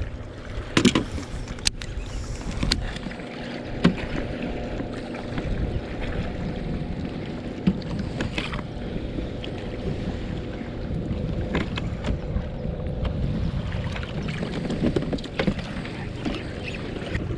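Scattered knocks and clatter against a kayak hull, heaviest in the first few seconds, over a steady low hum, as a bass is brought aboard.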